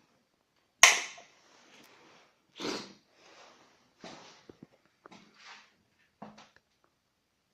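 A sharp knock about a second in, followed by four or five softer bumps and scrapes of handled objects, with a small room's echo.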